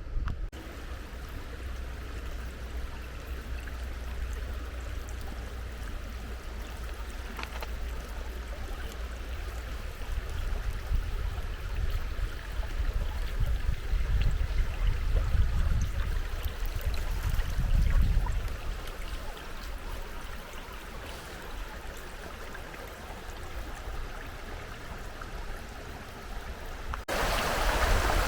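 Steady rushing of a river running over stones, with wind buffeting the microphone in low rumbling gusts that are strongest around the middle. Near the end the rushing turns suddenly louder and brighter.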